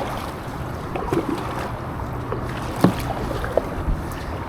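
A kayak moving on the water: steady water and wind noise on the microphone with a faint low hum, and a few sharp knocks, the loudest about three seconds in.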